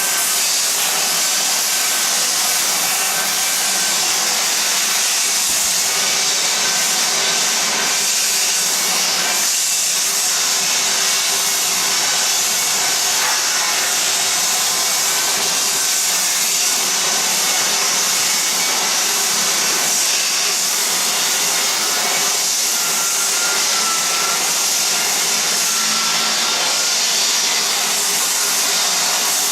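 Floor edger (a disc sander) running steadily while it sands the edges of an old wooden floor along the walls; a loud, unbroken hiss with a faint steady whine.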